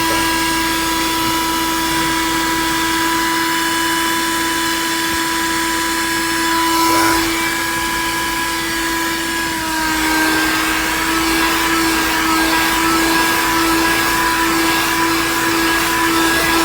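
Small car vacuum cleaner running continuously, a steady motor whine over rushing air. About ten seconds in, the pitch dips slightly and the air noise gets louder.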